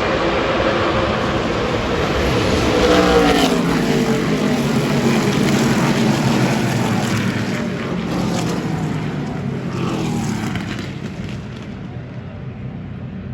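NASCAR Craftsman Truck Series race trucks' V8 engines going by at racing speed. The pitch drops sharply as one passes about three seconds in, and the loud engine noise eases near the end as the pack moves away.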